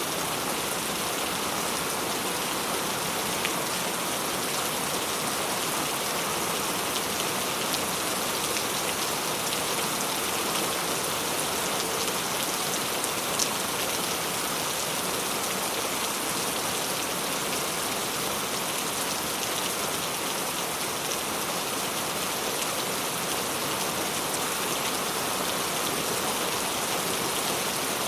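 Steady rain falling, an even hiss of many drops striking surfaces, with one sharper single drop tick about halfway through.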